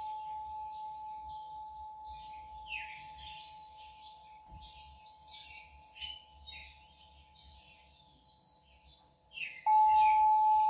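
A singing bowl rings one steady tone that slowly fades away, then is struck again about a second before the end and rings out loud. Birds chirp and twitter throughout.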